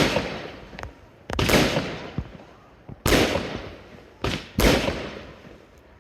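Consumer F2 firework batteries firing: four sharp bangs, each followed by a long fading tail, the last two close together.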